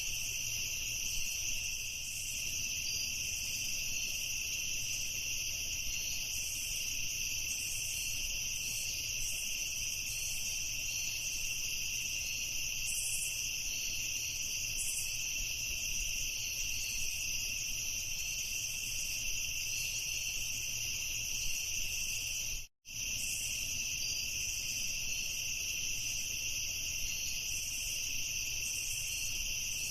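Crickets chirping in a dense, steady chorus, high in pitch. About two-thirds of the way through the sound cuts out completely for a split second, then carries on.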